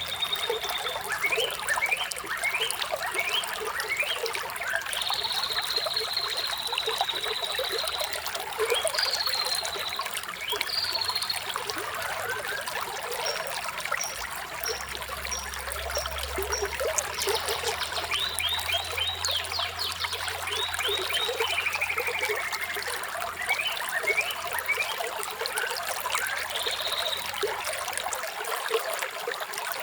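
Running water trickling and splashing steadily, with small birds singing over it: quick rising chirps, held high whistles and fast trills, coming and going.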